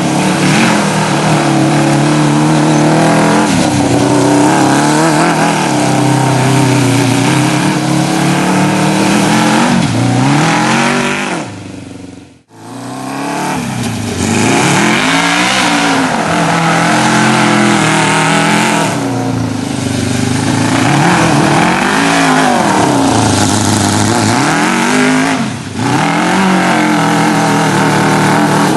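Kawasaki KZ650 air-cooled inline-four motorcycle engine powering a go-kart, revving up and down again and again under way as it accelerates and backs off. About twelve seconds in the sound fades away almost to nothing and comes back abruptly.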